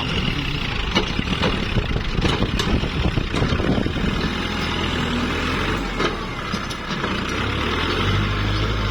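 Kubota MU4902 tractor's diesel engine running steadily while working the soil, with scattered knocks and clatter.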